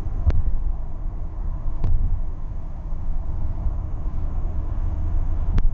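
Steady low rumble of a car's road and engine noise heard from inside the moving vehicle, with three sharp clicks, one near the start, one about two seconds in and one near the end.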